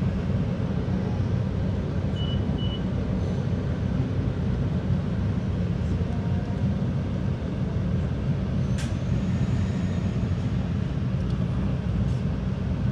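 Steady low rumble of a commuter train's cab car rolling along the track, heard from inside the car. Two short high beeps come about two seconds in, and a single sharp click a little past the middle.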